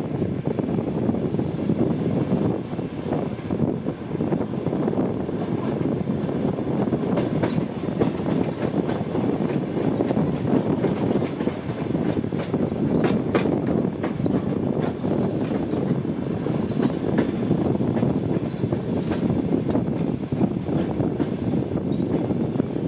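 Passenger train running along the track, heard from a carriage window: a steady rumble of wheels on rails. A few sharp clicks come about halfway through and again later.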